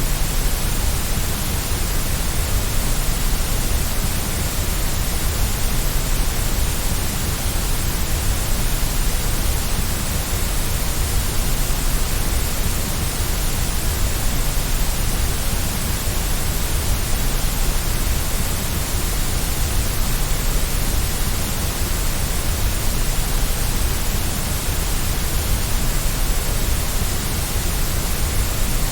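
Steady white noise: an even, unbroken hiss with a deep rumble beneath it, unchanging throughout.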